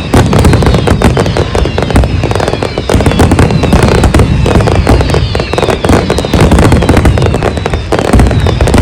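Large fireworks display: a dense, continuous barrage of bangs and crackling, with many short falling whistles layered over it.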